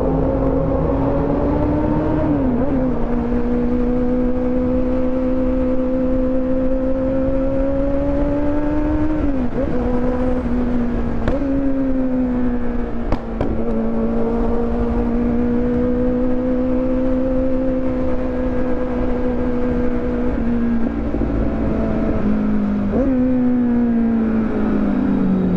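Kawasaki motorcycle engine running hard under way at a steady high pitch. It dips briefly and jumps back several times, and there is a short click about halfway through. Near the end the pitch falls steadily as the engine slows.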